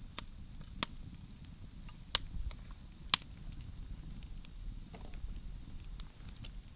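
Wood bonfire crackling, with four sharp pops in the first three seconds or so and lighter ticks after, over a low rumble.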